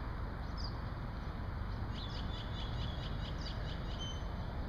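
A small bird chirping: a single high note, then a quick run of about a dozen short high chirps starting about two seconds in, over a steady outdoor rumble.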